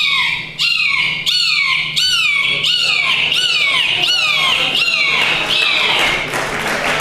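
A woman imitating a bird call by voice: a rapid series of whistled notes, each falling in pitch, about two a second, a dozen in all.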